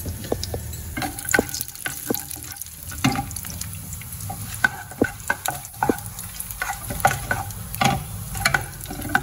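Cashew pieces frying in ghee in a nonstick pan, sizzling steadily, stirred with a spatula that gives frequent irregular clicks and scrapes against the pan.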